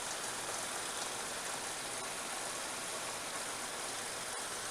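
Suzuki Grand Vitara's 2.5-litre V6 engine idling steadily, running smoothly with no misfire at this moment; its intermittent misfire comes from the cylinder 2 injector, which the mechanic suspects has a loose connection. A single faint click near the end.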